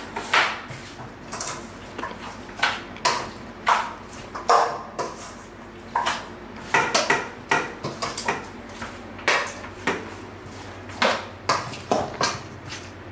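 Dishes and metal utensils being handled, clinking and knocking irregularly, with a sharp clatter every second or so.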